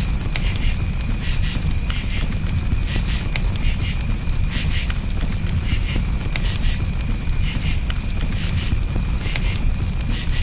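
Campfire crackling with frequent sharp pops over a low steady rumble, with crickets chirping continuously in quick pulsing trills.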